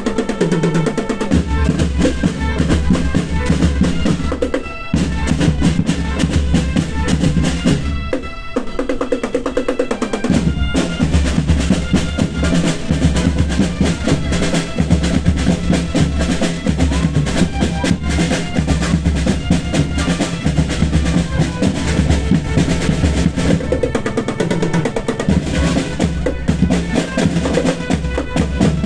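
Marching band playing, with snare drums rolling and bass drums beating under pitched instruments. The low drums drop out briefly twice, about five seconds in and again around eight to ten seconds in.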